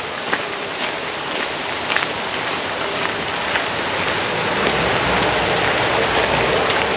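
Steady rain falling, with scattered drops tapping close by; the hiss grows a little louder after the middle.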